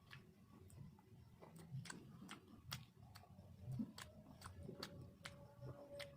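Close-up eating sounds: chewing with irregular wet mouth clicks and smacks, a few each second, over soft low chewing thuds.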